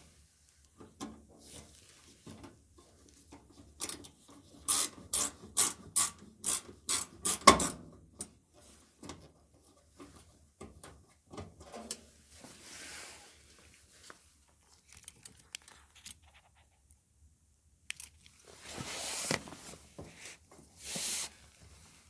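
A run of sharp metallic clicks and knocks, about two a second, then scattered clicks and two short scraping bursts near the end: hand tools and dryer parts being handled during disassembly or reassembly.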